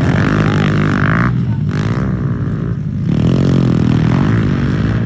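Several pit bike engines racing on a dirt track, their pitch climbing and dropping repeatedly as the riders rev, shift and back off.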